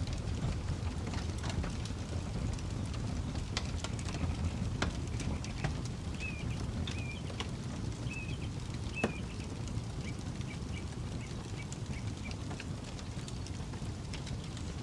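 Campfire crackling, with scattered sharp pops over a steady low rumble. A bird chirps four times around the middle, then more faintly.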